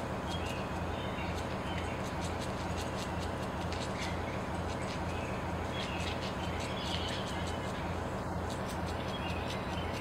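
Outdoor ambience of small birds chirping, short scattered calls over a steady low hum.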